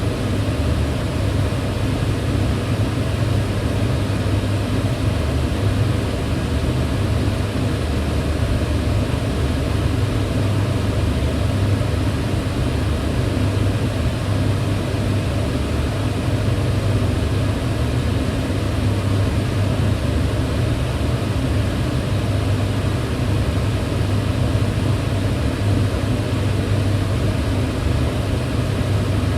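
Kitchen range hood fan running steadily: an even rushing of air over a low motor hum, with no change in speed.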